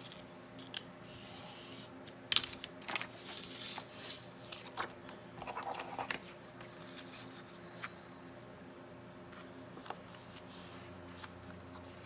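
Paper being handled and cut with scissors: irregular snips, rustles and light taps, the loudest a sharp click a couple of seconds in.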